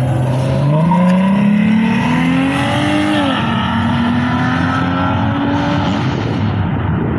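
Car engine accelerating hard. Its pitch climbs for about three seconds, drops sharply, then climbs again more slowly.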